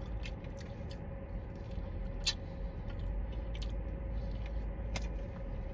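Chewing on fried wings with a soft, not crispy crust: quiet, wet mouth sounds and a few sharp clicks, the loudest about two seconds in and about five seconds in, over a steady low hum.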